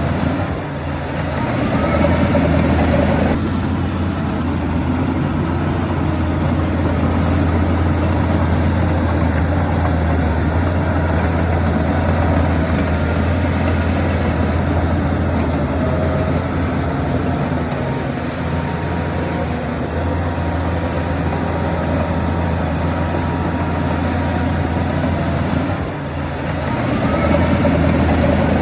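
Heavy diesel engine of earthmoving machinery running steadily under load with a deep, constant hum, dipping briefly about a second in and again near the end before picking back up.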